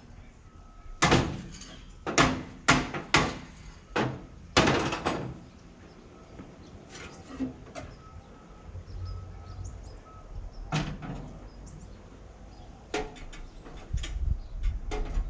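A run of loud, sharp metal knocks, about seven in the first five seconds, then a few lighter clanks and a low rumble near the end, from work on the old exhaust of a Prentice 2432 log skidder as it is being taken off.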